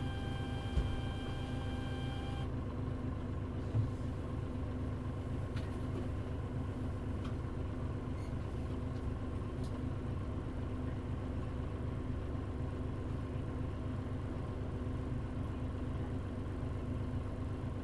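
Interior running sound of a Mitsubishi Fuso Aerostar bus with a Nishiko body (KL-MP35JM): a steady engine hum and drone. A high steady whine cuts off about two and a half seconds in, and there is a single knock just under a second in.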